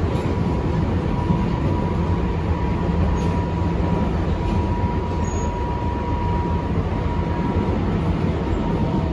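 Tobu 10030 series electric commuter train, a steady rumble with a faint steady whine above it.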